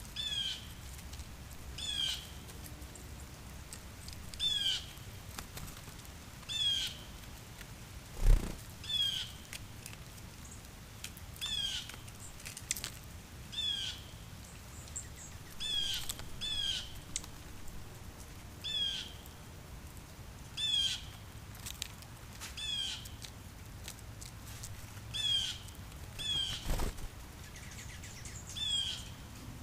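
A bird calling over and over, one short call about every one to two seconds, each call a quick wavering note. Two sharp thumps break in, one about eight seconds in (the loudest sound) and one near the end.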